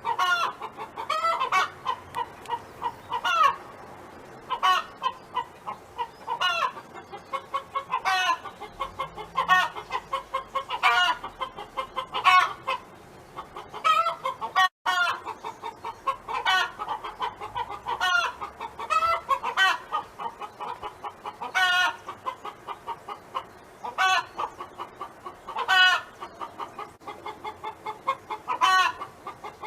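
Domestic hen clucking continuously: a steady run of short clucks, with a louder, drawn-out call every second or two.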